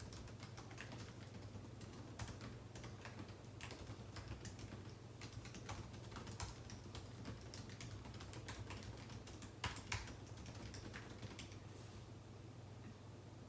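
Typing on a computer keyboard: irregular key clicks at an uneven pace, with two louder keystrokes about ten seconds in, over a faint steady low hum.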